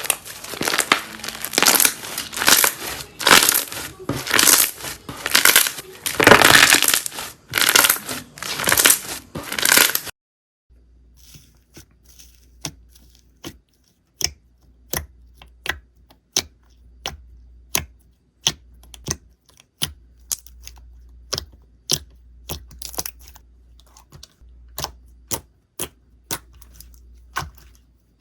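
Slime squeezed and pressed by hand: dense crackling for about ten seconds, then after a cut, sharp separate clicks and pops about once or twice a second over a low hum.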